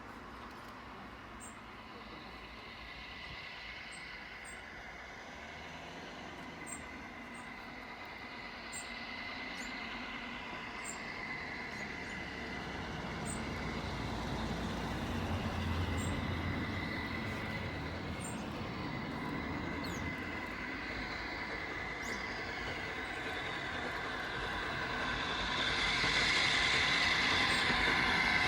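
A train running on the rails and getting steadily louder as it approaches, with a low rumble and a steady high ring from the wheels on the rails that is strongest near the end.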